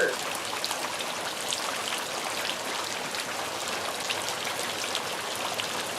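Steady rain falling, with many individual drops ticking on hard surfaces.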